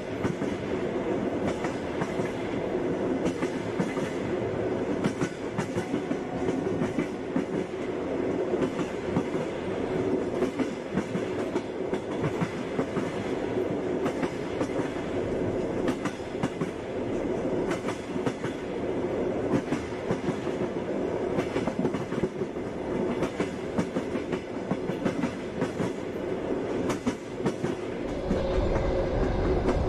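A moving passenger train's wheels clattering over the rail joints, with many quick clicks over a steady rumble of the running carriage. About two seconds before the end, a deeper low rumble joins in.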